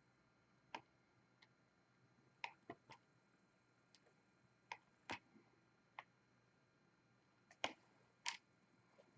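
Light, irregular clicks and taps, about a dozen, with a few louder ones near the end. They fit a diamond painting pen picking up drills and pressing them onto the canvas.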